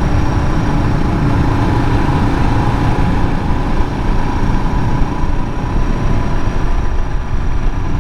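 Suzuki DR650's single-cylinder engine running steadily while riding at a constant pace, under a heavy rush of wind noise.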